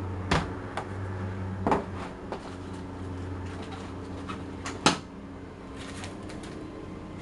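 Makeup products being handled: a few sharp clicks and knocks of hard cases and packaging, the loudest about five seconds in, over a steady low hum.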